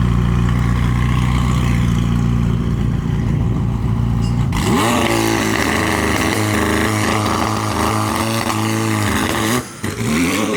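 A car engine rumbling low, then revved hard about four and a half seconds in as the car accelerates away: the pitch climbs and holds high, breaks briefly near the end at a gear change, and climbs again.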